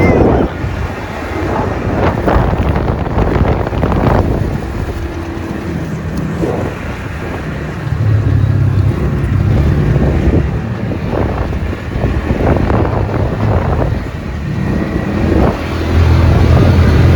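A vehicle's engine running as it drives along, its low hum growing louder twice, with wind buffeting the microphone and occasional knocks.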